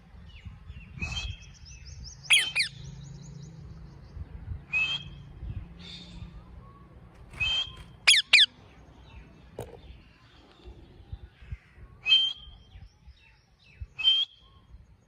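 Ring-necked parakeet calling: short, sharp calls repeated every few seconds, several in quick pairs that drop in pitch.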